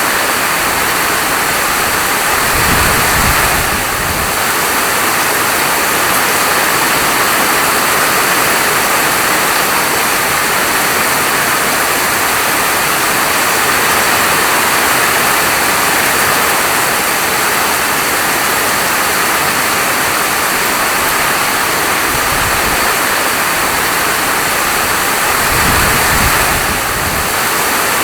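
Steady, dense rain falling, an even hiss with no let-up. A low rumble swells briefly about three seconds in and again near the end.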